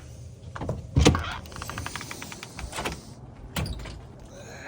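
Handling knocks, the loudest about a second in, followed by a fast even run of clicks lasting about a second and two more knocks.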